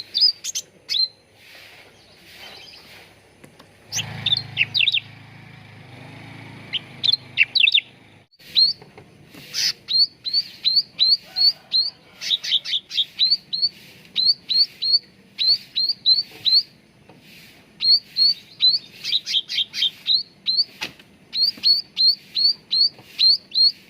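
Cucak ranting songbird calling in rapid runs of short, sharp, downward-slurred chirps, about three or four a second. A low hum sits underneath for a few seconds near the start.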